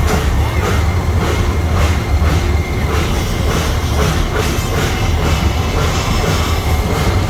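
Steam train heard from a passenger car while moving: a steady rumble of the running car with a regular clacking, about two to three times a second.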